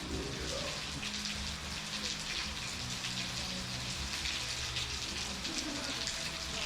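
Steady rain falling and pattering on surfaces, with a faint low steady hum underneath.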